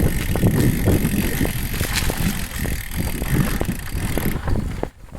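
Wind rush and road rumble on the microphone of a camera carried on a moving bicycle, with scattered small knocks and rattles. Near the end the hiss and rumble drop away and it goes much quieter.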